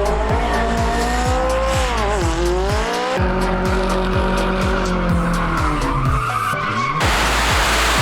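Car engine note falling and rising with tire squeal from skidding, over music with a steady beat. About seven seconds in it cuts abruptly to a loud hissing rush.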